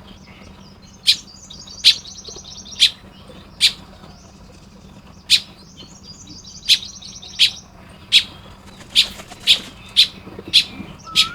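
Baya weavers calling at their nests: sharp, loud chip notes repeated about fourteen times at uneven intervals, coming faster toward the end, with bursts of buzzy, chattering song about a second in and again around the middle.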